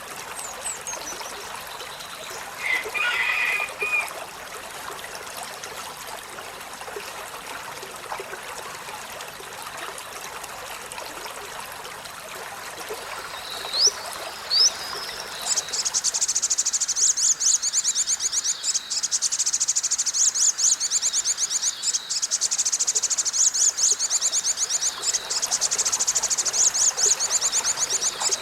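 Olive-backed sunbird giving a few short, high chirps over a trickling-water background. About halfway in, a loud, high, rapidly pulsing trill starts and keeps going.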